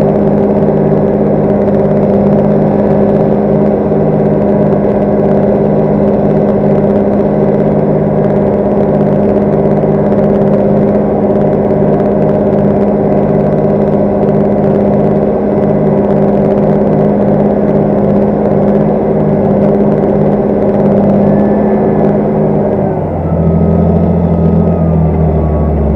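Large farm tractor's diesel engine running steadily at constant revs, a loud even drone that holds one pitch. About three seconds before the end, the sound changes as deeper steady tones come in.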